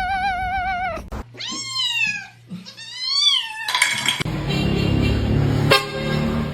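A cat's long drawn-out yowl with a wavering pitch, ending about a second in. Then come two separate meows, each rising and then falling in pitch. After about four seconds a busier, noisier passage takes over.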